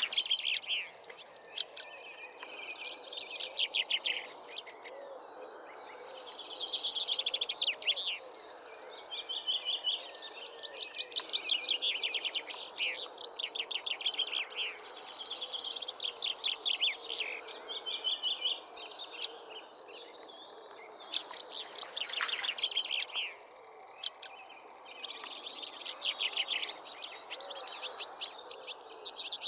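A songbird singing: one phrase after another, each a rapid string of quick, high repeated notes lasting a second or two, with short pauses between phrases. A faint steady background hiss runs underneath.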